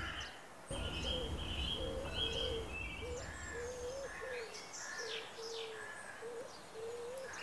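Park birdsong: a short low call repeated about twice a second, with higher chirps and quick whistled sweeps over it.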